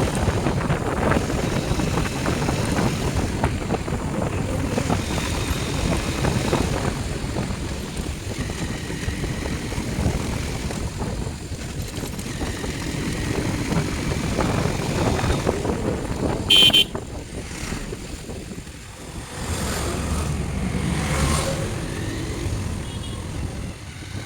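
Motorcycle riding noise: engine and wind rushing over the microphone. About two-thirds of the way through comes one short, loud vehicle horn blast.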